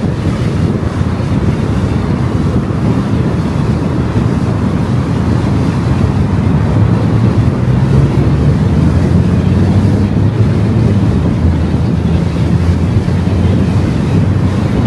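Steady road and wind noise from a car driving on the open road, with a low rumble and a faint engine hum underneath, slightly louder in the second half.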